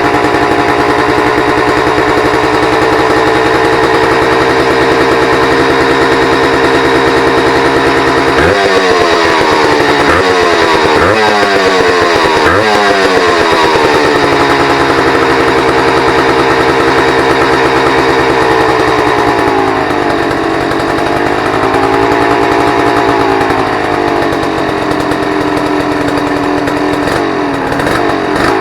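Honda CRM250 two-stroke single running in an NSR50 frame, idling high and steady. About eight seconds in it is blipped four times, the revs jumping and falling back, and later they sag slowly and pick up again. The revs will not come down to a proper idle, a fault the owner has had before.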